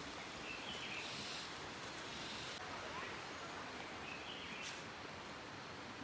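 Faint outdoor ambience: a steady hiss with a few short, faint bird calls.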